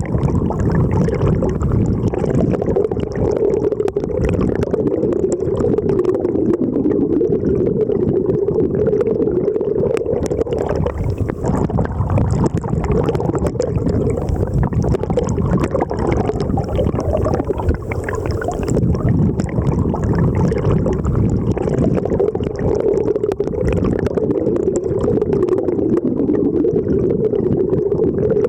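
Mountain river flowing: a steady, loud rush of water, heaviest in the low and middle range.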